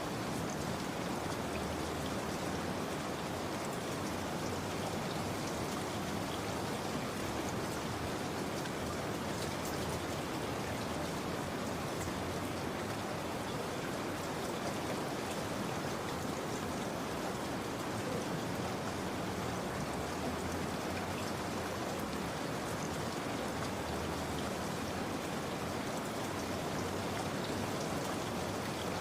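Steady rain falling, with a fine patter of drops.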